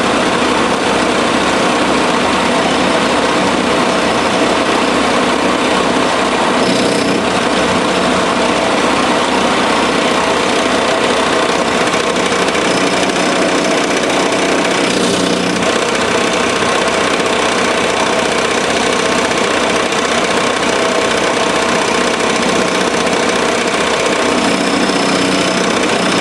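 Milling machine running and cutting a steel tool-holder blank on a cleanup pass that removes leftover material. A loud, steady machining noise over a constant hum, with no break.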